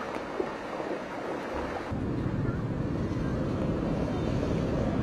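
Heavy rain hissing down on a flooded street. About two seconds in it cuts to a steady, louder low rumble of wind buffeting the microphone over fast-flowing floodwater.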